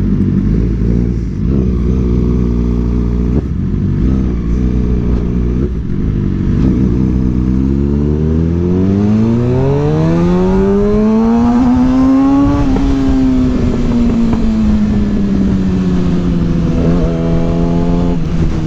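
Suzuki GSX-R600 inline-four engine under way, running steadily at first, then pulling up through the revs in one long smooth rise past the middle and easing back down gradually toward the end. Wind buffets the microphone underneath.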